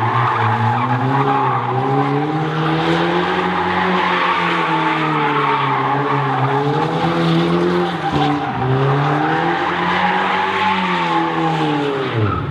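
BMW 316i E36's four-cylinder engine running hard with no exhaust, its revs swinging up and down while the tyres squeal steadily in a drift. The revs dip briefly about eight seconds in and fall away sharply near the end.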